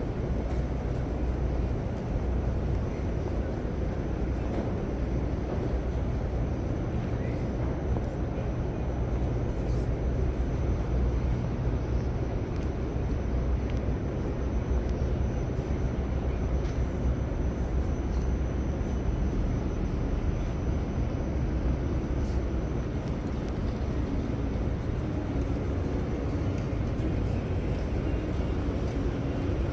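Steady rumble of city street traffic, the low drone of engines and tyres of passing vehicles, with no single event standing out.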